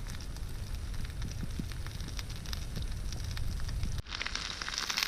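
Wood campfire crackling with scattered sharp pops over a low rumble. About four seconds in, the sound cuts abruptly to a loud hissing sizzle: chicken breast frying in the hot pan over the fire.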